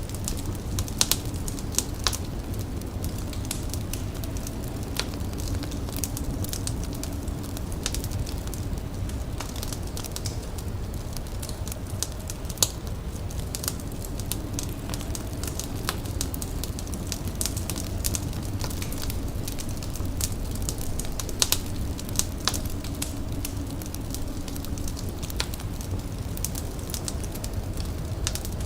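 Wood fire crackling, with scattered sharp pops, over a steady low rumble.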